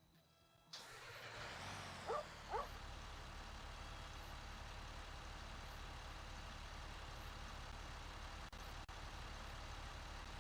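A vehicle engine starting and then idling steadily, with two short, quick falling chirps about two seconds in.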